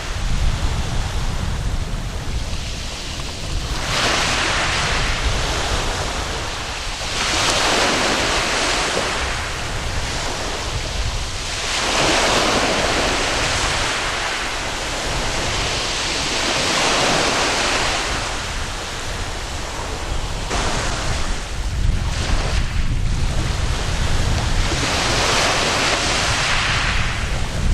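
Sea waves washing up on a sandy beach, each swelling and falling away, about every four to five seconds. Wind rumbles on the microphone underneath.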